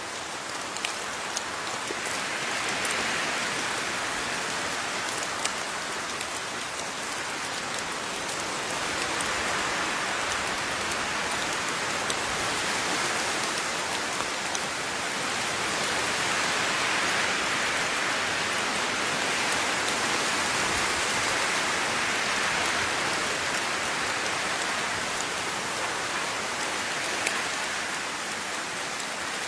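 Steady rainfall pattering on a surface, a dense hiss that swells and eases gently over several seconds, with scattered louder ticks of individual drops.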